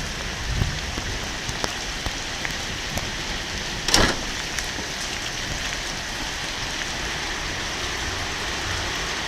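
Heavy rain falling steadily on surfaces, with one brief sharp knock about four seconds in.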